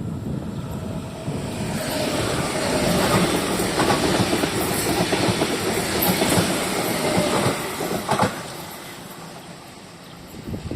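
A train passing close by, its wheels clattering over the rail joints. It swells over the first couple of seconds and dies away about eight seconds in.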